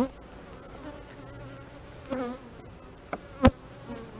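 Honey bees buzzing around an open hive, with a few sharp clicks and knocks, the loudest about three and a half seconds in, as a frame is pried loose from the hive body.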